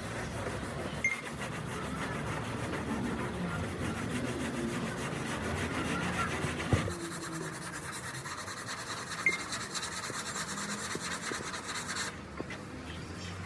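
Steady rasping, rubbing noise of work on a surface, with a couple of brief knocks, cutting off suddenly about twelve seconds in.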